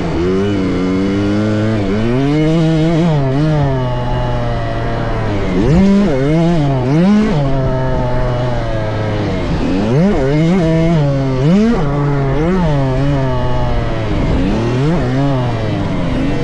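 Small youth motocross dirt bike engines revving up and down over and over, the pitch climbing and dropping about once a second as the throttle is worked through the track. At times more than one bike is heard at once.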